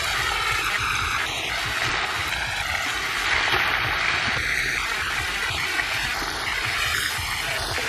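Whole frogs sizzling as they fry in a hot wok, a steady hiss.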